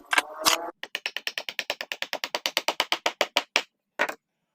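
A rapid, even run of sharp clicks, about ten a second, lasting close to three seconds, followed by a short double click near the end.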